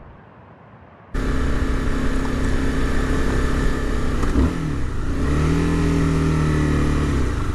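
A motorcycle engine cuts in suddenly about a second in and runs steadily. A little past halfway its pitch dips, then holds at a lower, even note.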